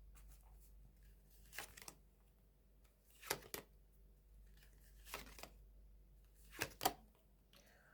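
Faint handling of tarot cards: a handful of brief, soft card flicks and rustles, spaced a second or two apart.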